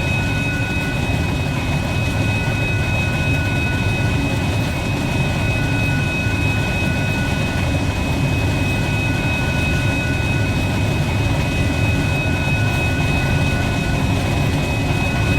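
BNSF freight train rolling past: a steady low rumble with a thin, steady high whine over it.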